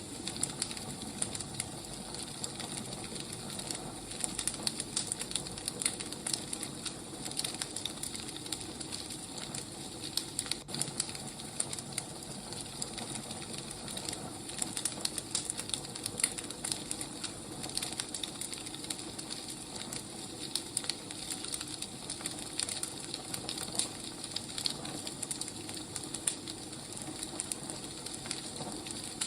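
Wood fire burning with a steady hiss and frequent irregular crackles and pops of the logs.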